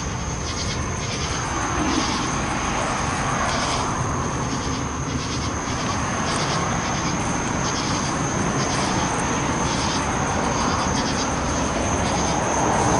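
A steady low rushing rumble, swelling and easing slightly, with night insects trilling in a constant high-pitched chorus.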